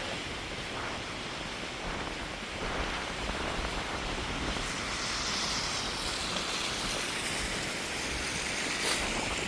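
Steady rush of wind blowing on the phone's microphone, with a brighter hiss swelling about halfway through.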